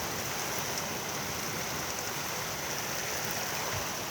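Heavy rain pouring steadily during a windy thunderstorm, an even hiss with no distinct drops or hits.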